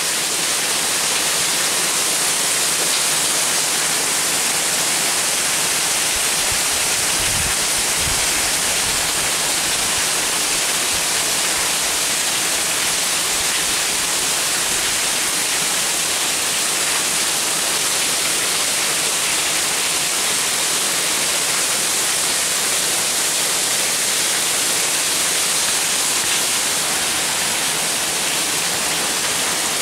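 Heavy downpour from a tropical storm, falling in a steady, even hiss.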